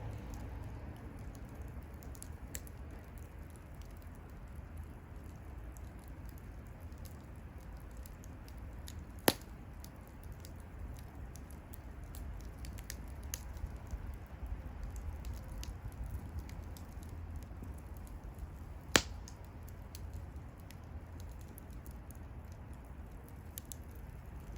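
Wood campfire crackling: scattered small ticks over a low steady rumble, with two sharp pops about ten seconds apart.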